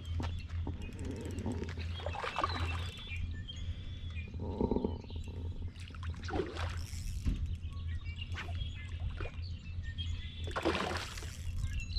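Wind rumbling steadily on the microphone, with scattered short sounds over it.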